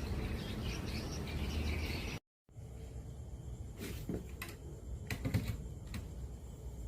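Sharp GF560 radio's receiver hiss and static between stations, with chirping interference. It cuts out completely for a moment about two seconds in, then comes back fainter with scattered clicks.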